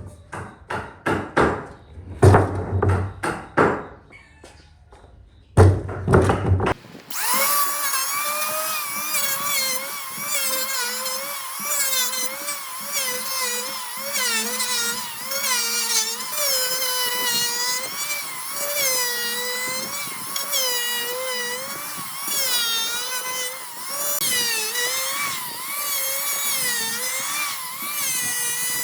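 A string of sharp knocks for the first several seconds, then an electric power tool starts about seven seconds in and runs on, its whine dipping and recovering again and again as it cuts into wood.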